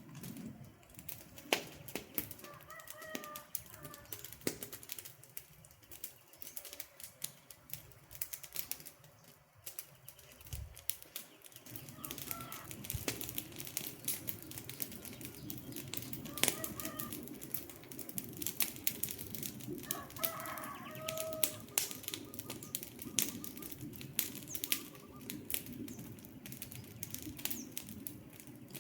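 Wood fire crackling with many sharp pops, the low rush of the flames growing louder about twelve seconds in. A few short bird calls come through several times.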